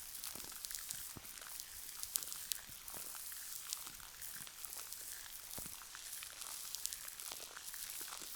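Gel cleanser being worked close to the microphone: a steady run of small, quick, wet clicks and crackles, over a soft rain ambience.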